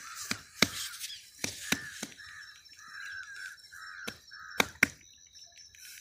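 A bird calling in a quick series of short repeated notes, about three a second, with several sharp knocks scattered through. The loudest knock comes about four and a half seconds in.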